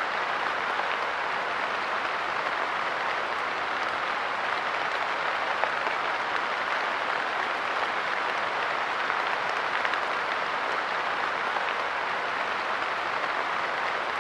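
Steady light rain falling, a dense even patter with scattered small drop ticks on a park bench and its surroundings.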